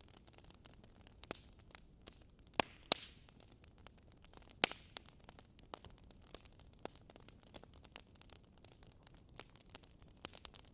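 Wood fire crackling: irregular small pops and snaps over a faint hiss, with a few louder snaps a quarter of the way in and a brief hiss around the same time.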